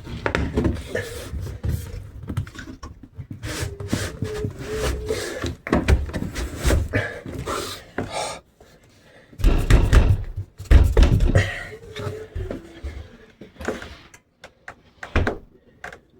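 Irregular knocks, clicks and thumps of hardware being worked onto a metal door, with the heaviest thumps about ten seconds in. The part is a tight fit that will not seat easily.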